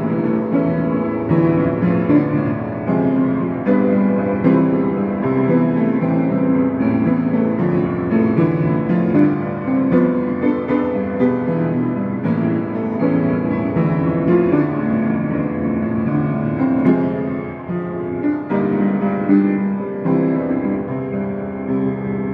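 Solo piano playing a pop song cover, with a melody over steady chords in a gentle, continuous flow.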